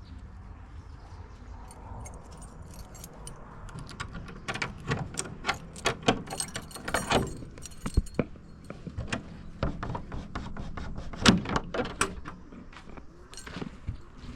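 A bunch of metal keys jangling and clinking against a lock as it is worked open, with many quick sharp clicks over several seconds, the loudest about two-thirds of the way through.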